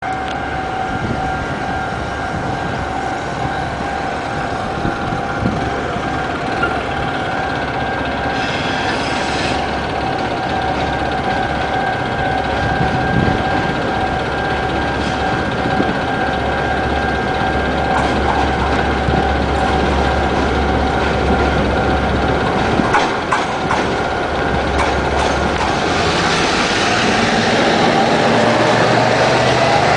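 A level-crossing warning signal sounds a steady two-tone ring over low engine rumble as an R20 diesel-electric locomotive hauling a coal train approaches. The locomotive's engine and wheel noise grow louder over the last few seconds.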